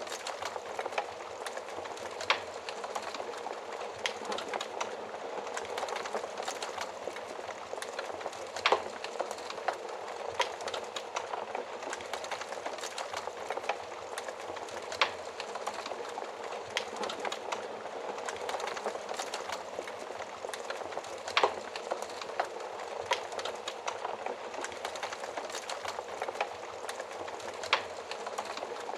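Wood fire burning in an oven: a steady hiss of flames with constant crackling and scattered sharp pops, the loudest about two seconds in, near nine seconds, near fifteen, near twenty-one and near twenty-eight.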